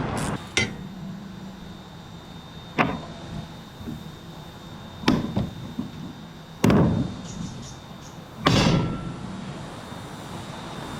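A series of five sharp knocks and bangs, irregularly spaced about two seconds apart, the later ones louder and ringing briefly: impacts from hand work on the boat, such as knocking or prying parts apart.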